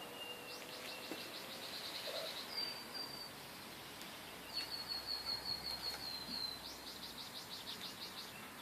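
Faint bird song: three runs of rapid, evenly repeated high chirping notes, each lasting a second or two.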